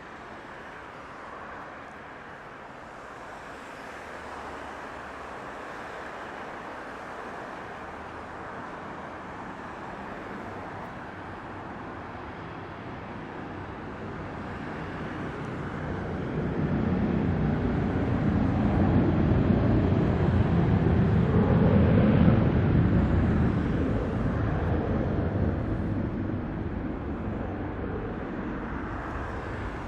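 Jet airliner passing on its landing approach: engine noise builds, peaks about two-thirds of the way through with a deep rumble, then fades as it goes by.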